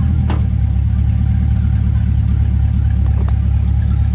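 Truck running with a loud, steady low rumble, with a sharp click shortly after the start and a couple of faint ticks later.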